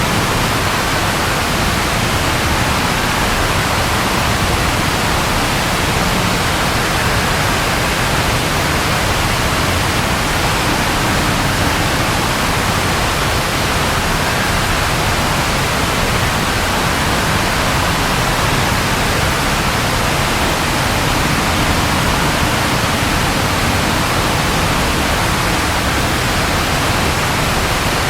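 Steady heavy rainfall, a dense even hiss with no let-up and no thunder.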